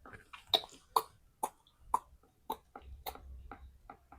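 Writing strokes: about ten sharp taps, roughly two a second, with faint scraping between them, as a formula is written out.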